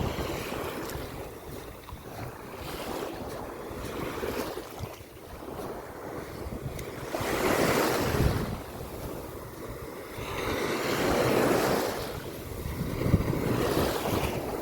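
Sea waves breaking and washing up the shore, swelling and fading in surges every few seconds, with wind.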